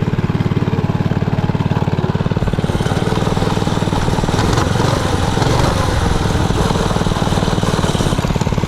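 A mini bike's original 90cc single-cylinder engine running steadily at idle, with rapid, even firing pulses. It is running again on fresh gas and oil with a worked-on carburetor after five years of not running.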